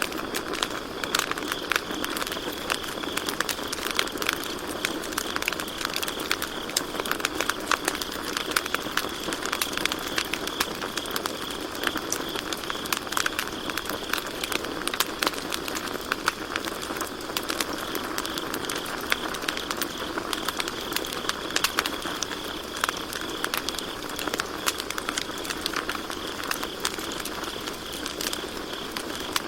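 Campfire crackling with frequent sharp pops over a steady hiss of burning wood, while crickets chirp steadily in the background.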